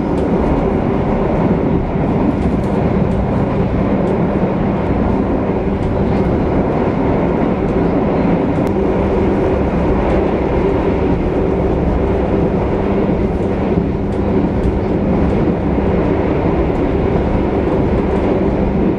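Passenger train running at speed, heard from inside the carriage: a steady rumble of wheels on rail with a constant hum underneath and a few faint clicks.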